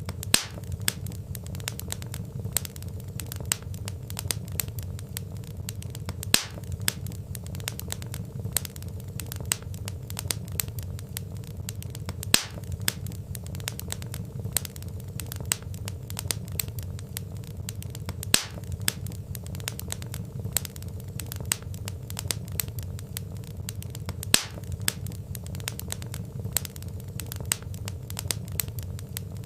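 Wood fire crackling and popping over a steady low rumble of flames, with a few louder pops every several seconds.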